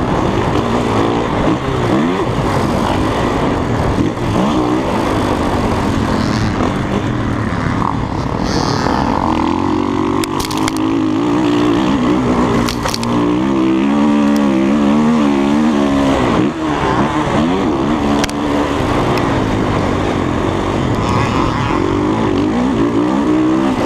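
Dirt bike engine revving up and down as it is ridden, its pitch rising and falling again and again, with a few sharp knocks about ten and thirteen seconds in.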